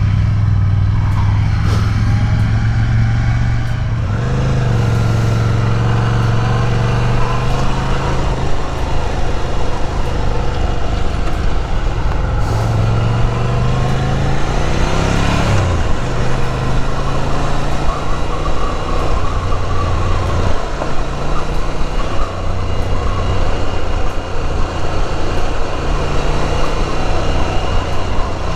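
Ducati Scrambler Nightshift's air-cooled L-twin engine running under way at road speed, with wind rush. Its revs rise and then drop sharply about fifteen seconds in.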